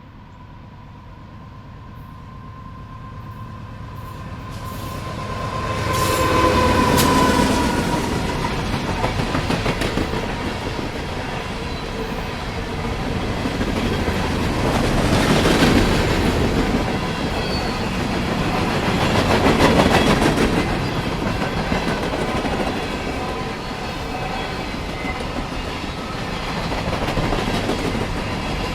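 CSX freight train with two GE diesel locomotives, an AC44CW and an ES40DC, approaching and running past, loudest about six to seven seconds in as the engines go by. Loaded grain hopper cars follow, their wheels clattering over rail joints in swells of rising and falling loudness.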